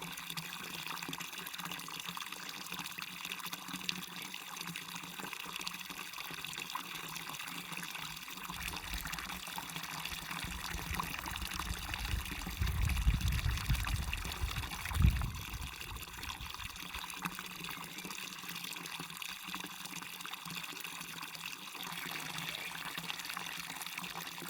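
Water of a waterfall and stream rushing and splashing steadily. About halfway through, a low rumble swells briefly and peaks twice.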